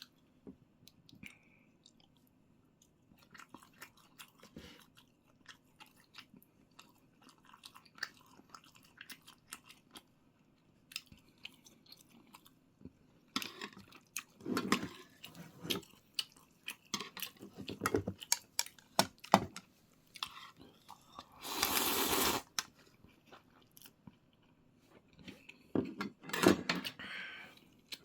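A person chewing food close to the microphone: many small wet clicks and smacks, with a few louder stretches of chewing or slurping about halfway through, near 22 seconds and near the end.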